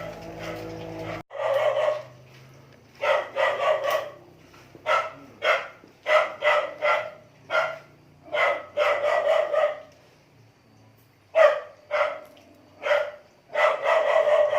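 A dog barking over and over in short runs of two to four barks with brief pauses between. A low steady hum before it stops abruptly about a second in.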